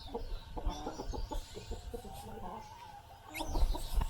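Hens clucking in short repeated calls, with small birds chirping high above them and one rising chirp about three seconds in. A few low thumps come near the end.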